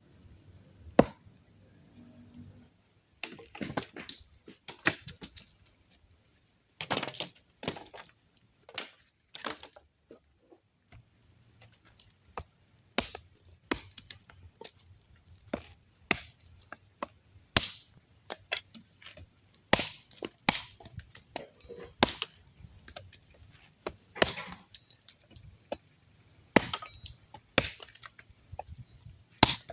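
Wood cracking and snapping: sharp, irregular cracks, some single and some in quick clusters of two or three.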